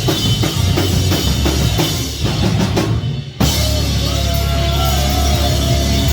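Live rock band playing: the drum kit beats a steady rhythm, then just after three seconds in the sound cuts out abruptly and comes back as held notes that bend in pitch over a steady low drone.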